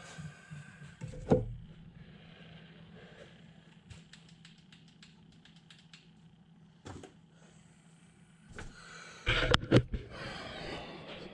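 Scattered light clicks and knocks of hard objects being handled, with one loud knock about a second in and a burst of louder knocks near the end, over a faint steady low hum.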